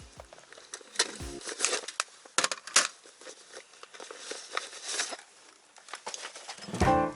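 Crinkling and rustling of handled wrapping, with irregular sharp clicks. A brief pitched sound comes in near the end.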